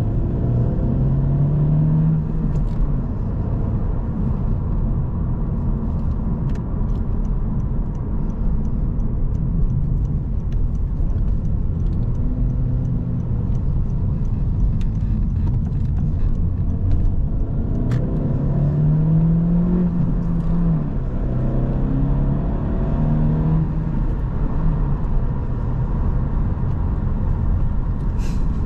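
2022 Honda Civic Si's turbocharged 1.5-litre four-cylinder engine accelerating, its note rising in pitch about a second in and again around two-thirds of the way through, over steady road rumble.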